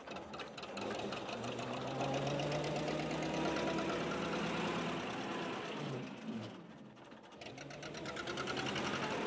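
Small vintage motor car's engine running as the car drives along, a fast, even puttering chug. It fades around two-thirds of the way through, then builds again near the end.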